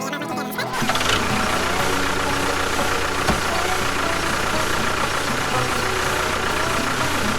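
An engine running steadily at idle. It takes over from music about a second in.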